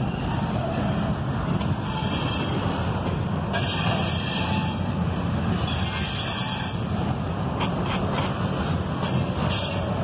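Double-stack intermodal freight cars rolling past close by: a steady rumble and clatter of steel wheels on the rails. Short spells of higher-pitched hissing noise come a few times, around four, six and nine seconds in.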